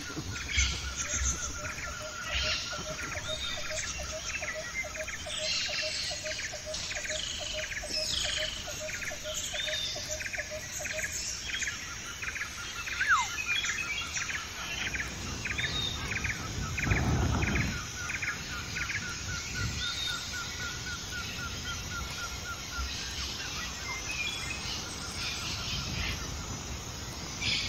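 Several wild birds singing together, with overlapping rapid trills and chirps; two of the trills run on at an even pitch for several seconds each. A brief low rumble comes about two-thirds of the way through.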